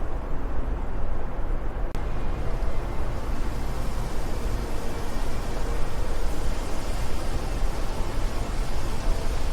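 Steady wind noise with a heavy low rumble and a rushing hiss. About two seconds in there is a brief dropout with a click, and after it the hiss grows brighter.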